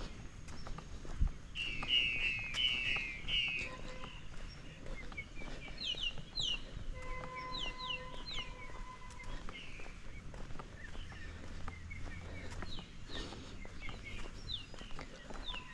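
Birds calling: a few seconds of rapid twittering about two seconds in, then scattered short, sharp chirps.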